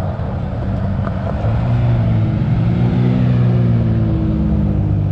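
Car engine running at low revs, getting louder about a second and a half in, with its pitch drifting slightly up and settling.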